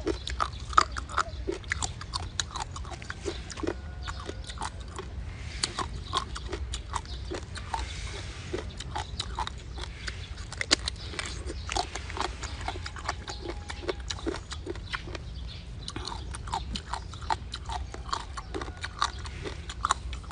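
Close-miked eating of seafood: wet chewing, smacking and sucking, as many quick irregular clicks. A steady low hum sits underneath.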